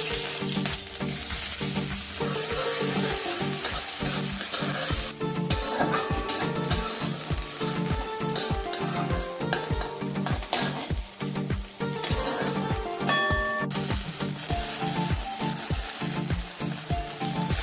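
Food sizzling as it fries in hot oil, over background music with a steady beat.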